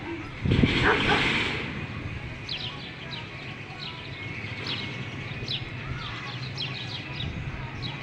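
Birds chirping: short, sharp downward-sweeping calls repeating irregularly over a steady low background hum. A louder noisy burst comes about half a second in and lasts about a second.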